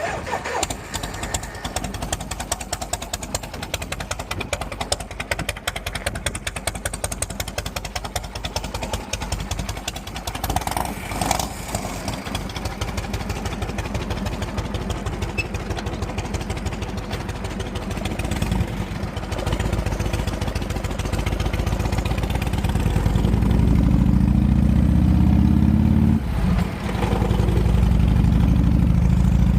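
1980 Harley-Davidson Electra Glide's Shovelhead V-twin running with a rapid, even firing pulse. About three-quarters of the way in it gets louder and deeper, drops off briefly once, then comes back up.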